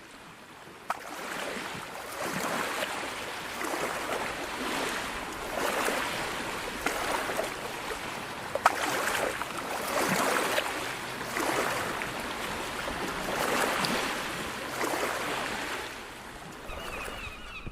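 Sea waves washing onto a sandy beach, the surf noise swelling and fading every couple of seconds, with a couple of sharp clicks.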